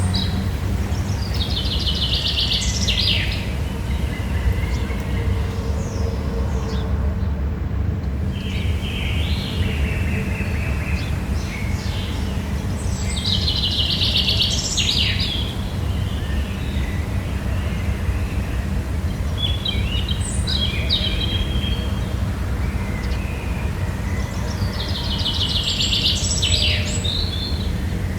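Birds singing: a trilling phrase recurs about every twelve seconds, with shorter chirps between, over a steady low rumble.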